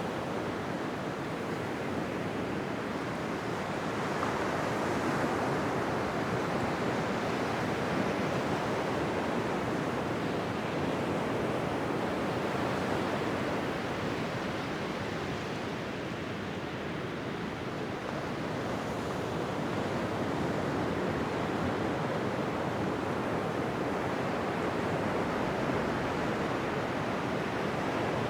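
Ocean surf washing onto a beach: a continuous rush of breaking waves that swells and eases slowly over several seconds.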